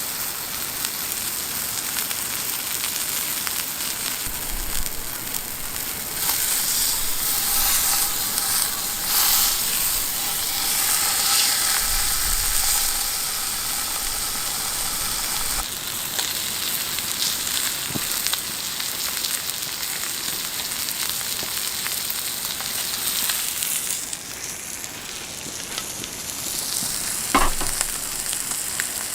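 Food sizzling in a hot pan, a steady hissing sizzle with fine scattered pops, louder for a stretch in the middle. A single sharp knock comes near the end.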